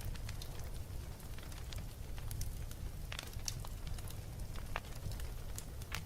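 Wood fire burning in a fireplace with a low steady rumble and irregular sharp crackles and pops scattered throughout.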